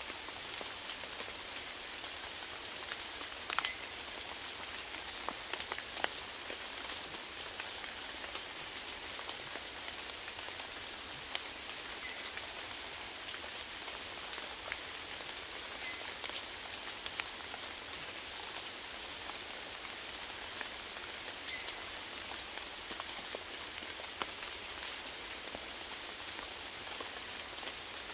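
Steady rainfall: an even hiss of rain with scattered individual drops ticking on a surface, a couple of louder drips a few seconds in.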